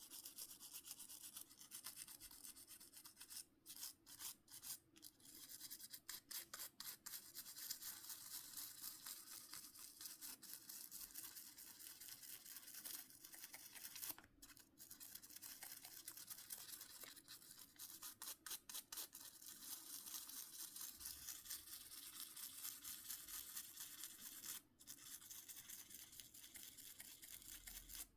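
Faint, fast scratchy scrubbing of a small bristle brush on a mobile phone's parts, with a few short breaks.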